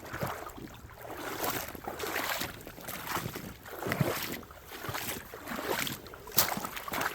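A person's footsteps walking along a creek, roughly one step a second, with a sharp click near the end.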